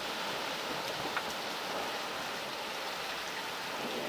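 Heavy rain falling steadily, a continuous even hiss, with one faint tick about a second in.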